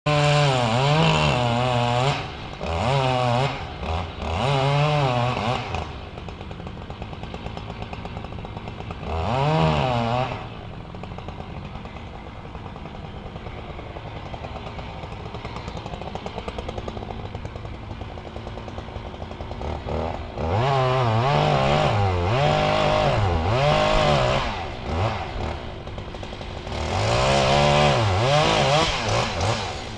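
Two-stroke chainsaw cutting into an oak trunk during felling. It revs high under load for the first six seconds or so, again briefly around ten seconds in, and again from about twenty seconds on, and drops back to idle in between.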